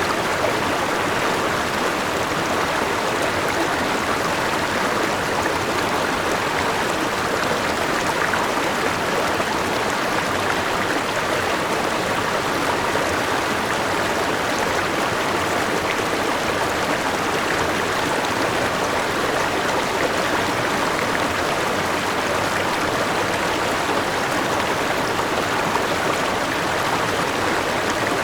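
Forest river rushing over rocks, with a waterfall in it: a steady, even splashing flow that holds level throughout.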